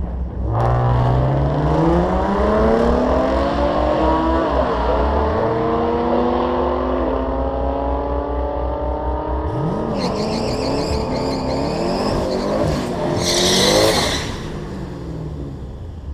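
Twin-turbocharged Chevrolet Camaro SS V8 launching hard down a drag strip. The engine note climbs and drops back at each gearshift over several seconds. Near the end there is a loud burst of high hissing, and then the engine sound falls away.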